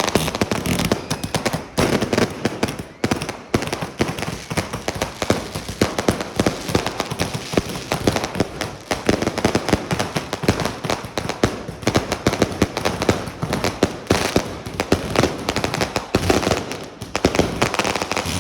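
Fireworks going off in rapid, continuous volleys of bangs and crackles.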